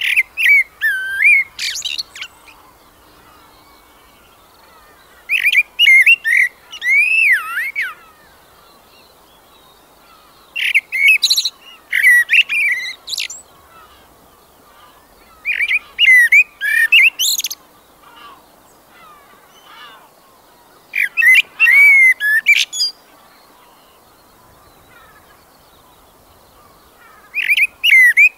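A songbird singing: short phrases of quick whistled chirps and trills, each a couple of seconds long, repeated about every five seconds with pauses between.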